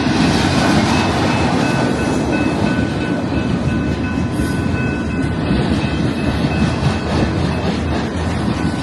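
Freight train rolling past, its railcars making a loud, steady rumble on the track, with a faint high steady whine running over it.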